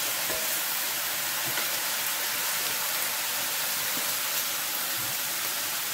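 Smoked pork belly and sauerkraut sizzling in rendered fat in an enamelled cast-iron pot: a steady hiss, with a few faint taps.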